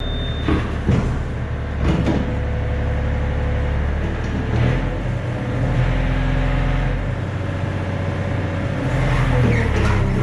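Yanmar excavator's diesel engine running steadily, with a few sharp metal clanks in the first two seconds; the engine note shifts a couple of times.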